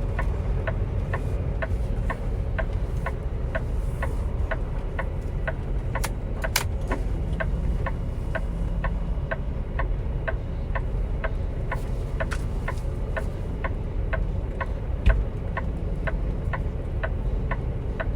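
Semi truck's diesel engine running low in the cab as the rig is eased into a parking spot, with a steady clicking about two to three times a second. Two sharp clicks come about six seconds in, and a short thump near the end.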